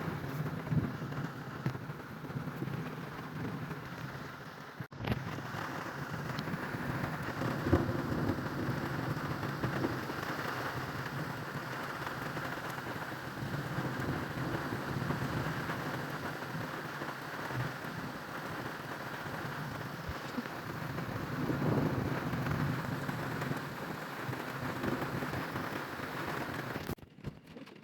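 Heavy rain falling steadily, with low thunder rumbling through it and swelling twice, about seven seconds in and again past twenty seconds. The sound drops away abruptly near the end.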